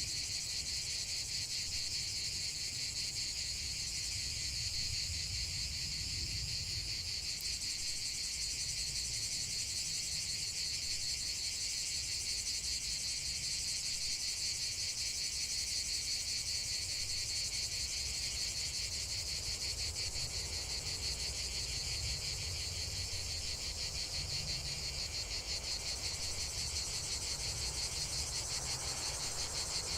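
Crickets chirring in a dense, continuous chorus of fast pulsing trills, with a low rumble underneath.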